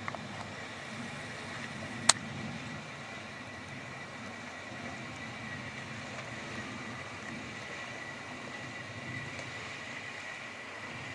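Suzuki Samurai 4x4 engine running low and steady as it creeps down a steep rocky descent, with a sharp click about two seconds in.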